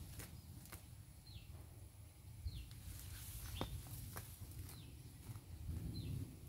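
A bird repeats a short, high, falling call about once a second. Under it are a few small snaps and rustles as leaves are picked from the plants by hand.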